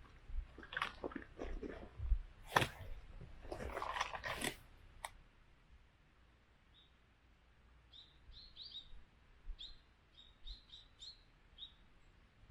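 A run of irregular knocks and clicks for about the first five seconds, then a small bird chirping: short high notes in quick clusters.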